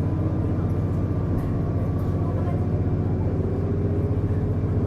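Running sound of a KiHa 48 diesel railcar heard from on board: a steady low rumble of engine and wheels on the track, with one engine tone rising slowly in pitch.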